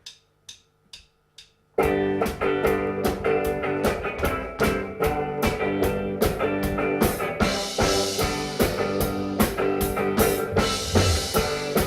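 Four evenly spaced clicks counting the band in, then a live band starts a song's instrumental intro about two seconds in: guitar and drum kit playing together with a steady beat.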